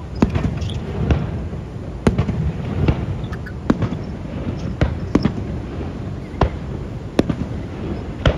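Aerial fireworks shells bursting: about ten sharp bangs at uneven intervals, roughly one a second, with fainter pops between them, over a steady low rumble.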